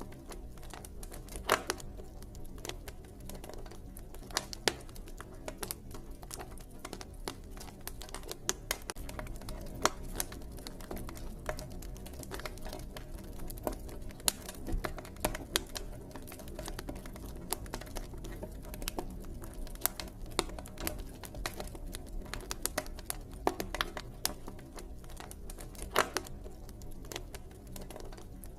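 Wood campfire crackling: irregular sharp pops and snaps, several a second, some louder than the rest, over a low steady rumble of the burning fire.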